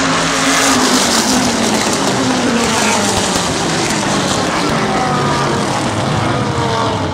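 Racing car engines running at high revs over a loud rushing noise, their pitch sliding down during the first few seconds.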